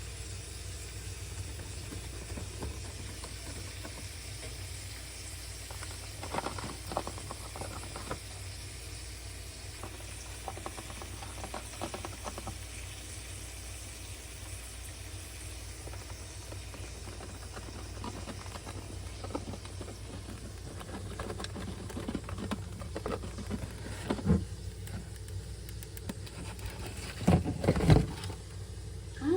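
Pet cockatiel's claws and beak making soft scattered scratches, taps and clicks over a steady low hum, with a few louder knocks near the end.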